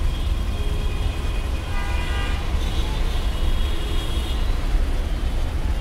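Toyota Corolla Fielder hybrid's petrol engine running steadily after its EGR valve has been cleaned, with no sign of the fault that had cut its pickup. Faint high tones come in over it for a few seconds mid-way.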